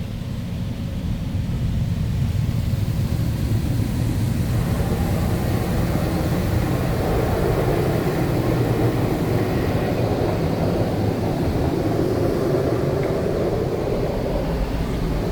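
Touchless automatic car wash machine running over the car, heard from inside the car: a steady rushing noise over a low rumble, growing louder about four to five seconds in as the machine works closer.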